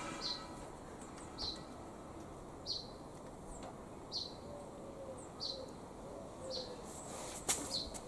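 A small bird repeating a short, high chirp about once every second and a bit, with faint pigeon cooing in the middle. A couple of sharp knocks come near the end.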